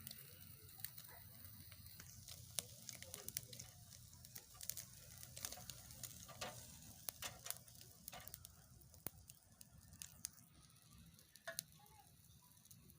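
Spiced chicken sausages sizzling as they grill, with frequent small crackles and pops from the hot fat over a faint steady hiss.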